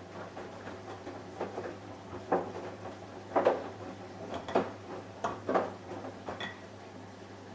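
Samsung Eco Bubble washing machine running, a steady low hum with a series of irregular clunks and knocks, one of them ringing briefly near the end.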